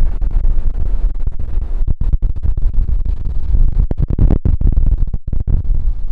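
Wind buffeting the camera's built-in microphone in loud, uneven low rumbling gusts over ocean surf, dropping out for an instant a few times.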